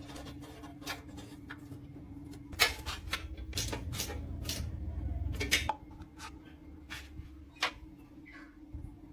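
Irregular clicks and knocks of hard objects being handled, like tools and parts on a workbench, over a steady low hum. A louder low rumble runs under the clicks from about two and a half to five and a half seconds in.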